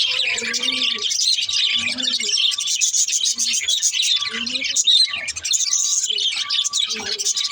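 Many small pet birds chirping and twittering all at once, without a break, with a lower pitched call coming back about once a second under them.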